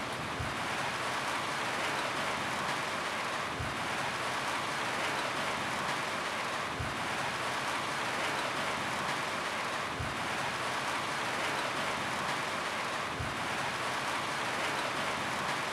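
Steady rain falling on a roof, an even hiss. A short, low thud recurs about every three seconds.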